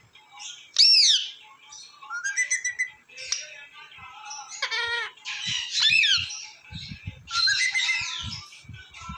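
A pair of pet parrots calling: short whistles that sweep up and down in pitch, mixed with harsher squawks, the loudest about a second in and again about six seconds in. Soft low thumps come in the second half.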